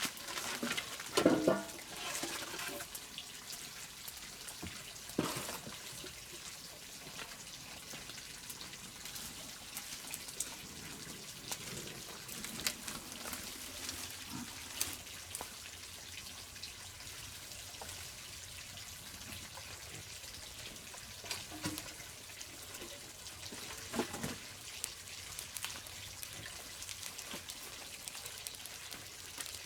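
Water trickling, with scattered light clicks and a few louder knocks, the loudest about a second in.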